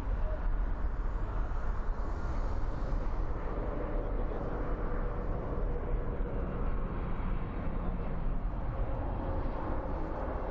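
Jet airliner engines at an airport: a steady, deep rumbling roar with a faint held tone that sinks slightly in pitch in the second half.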